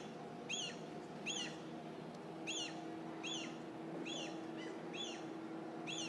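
A bird calling with a short, high, arched chirp over and over, a little more than once a second, over a steady low hum.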